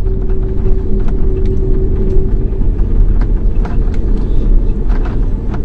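Airliner cabin noise as the plane rolls on the ground after landing: a loud, steady low rumble with scattered knocks and rattles. A steady engine hum in it stops about two and a half seconds in.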